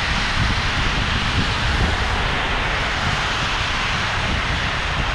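Steady hiss of rain and of car tyres swishing along a wet road, with wind rumbling on the microphone.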